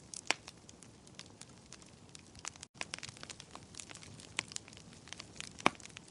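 Wood fire crackling, with a steady hiss and many sharp, irregular pops and snaps, two of them louder, one just after the start and one near the end. The sound cuts out completely for a moment a little under three seconds in.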